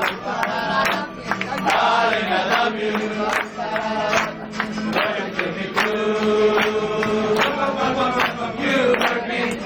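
Restaurant waiters singing a chant-like song together over music, with sharp percussive hits through it.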